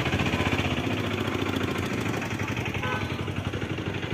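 A vehicle engine running steadily with a fast, even pulsing, cut off suddenly at the end.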